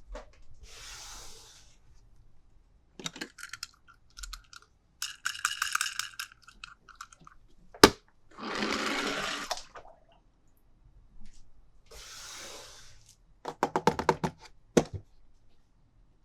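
Hard plastic toy packaging and toys being handled: several short bursts of rustling and crinkling, mixed with clicks and taps of plastic. There is a sharp snap a little before the halfway point and a quick run of clicks near the end.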